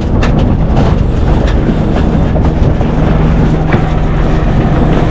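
Strong wind, 25 to 30 knots, rushing and buffeting over the microphone aboard a sailboat during a tack, with a few sharp knocks in the first second and a half.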